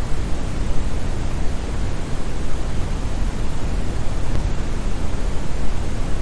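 Synthetic brown (Brownian) noise: a steady, even, deep rushing hiss, heaviest in the bass and thinning out toward the treble, with no pattern or change.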